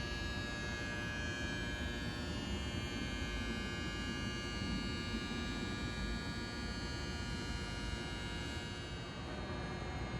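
Electric train's onboard equipment giving a steady electrical hum and whine made of many stacked tones, over a low rumble.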